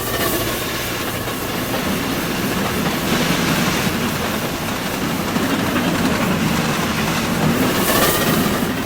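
A train running along its track, a steady rushing rail noise with a brief brighter swell near the end.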